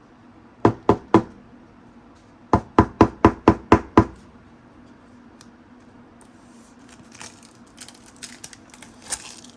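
A sleeved trading card in a rigid plastic top loader being tapped on a tabletop in quick runs of sharp knocks: three about a second in, then six in a row a couple of seconds later. Faint plastic rustling follows near the end.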